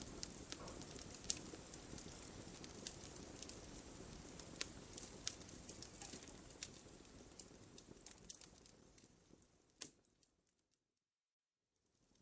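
Wood fire crackling: scattered sharp pops and snaps over a soft low rushing, with one loud pop near the middle. The sound fades away to silence about ten seconds in, then starts to return near the end.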